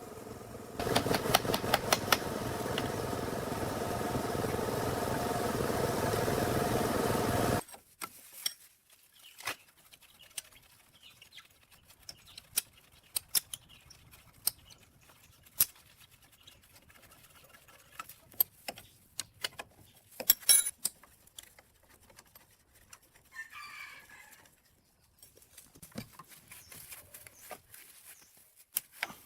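A motor runs steadily for about seven seconds and stops abruptly. Scattered sharp clicks and taps of metal tools follow. About two-thirds of the way through, a rooster crows once in the background.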